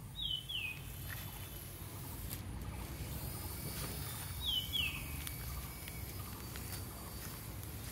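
A bird calling twice, each call a pair of short, high, falling chirps, over a steady low background rumble.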